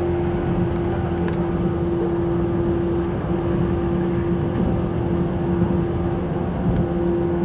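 JR 185 series electric train running, heard from inside the car: a steady low rumble with a constant hum held throughout.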